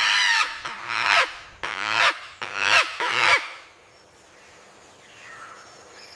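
Bear cubs calling: about five short, honking calls in quick succession, then a quieter stretch.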